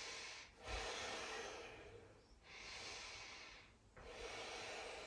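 A woman's slow, deep audible breathing: long, airy breaths in and out, about one and a half seconds each, following one another with short pauses between.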